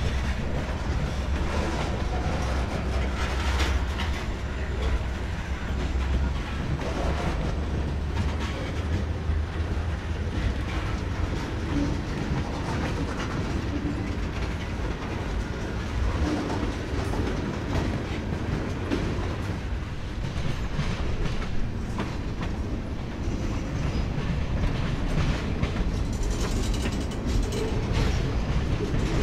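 Freight train rolling past, its wheels clicking over the rail joints over a steady low rumble.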